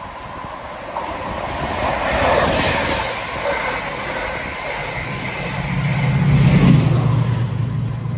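Chiltern Railways Class 68 diesel locomotive and Mk3 coaches passing at speed. Wheel and rail noise swells as the coaches rush by, then the locomotive's diesel engine drones low and steady as it passes, loudest about six to seven seconds in, and begins to fade near the end.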